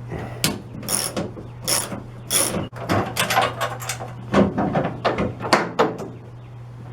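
Irregular mechanical clicks, knocks and rattles of hard parts being handled and worked loose at a pickup's tailgate, over a steady low hum.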